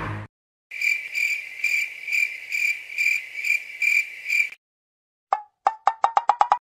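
Crickets chirping, a steady high trill pulsing about twice a second for roughly four seconds. After a short gap comes a run of short clicks that speed up toward the end.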